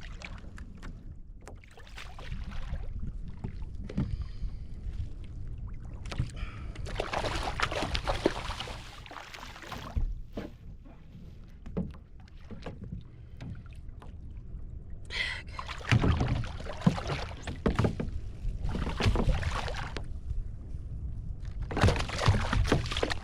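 Water splashing and sloshing around a fishing kayak in three long bursts, about six seconds in, at the two-thirds mark, and near the end, over a low steady rumble and scattered small knocks.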